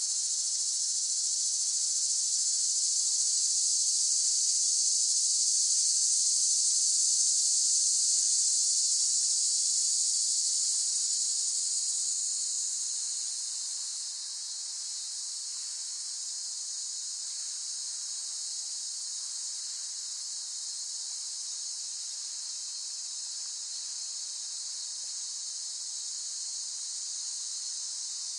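Cicadas buzzing in a steady, high-pitched drone. It swells over the first several seconds, then eases off about halfway through and holds at a lower level.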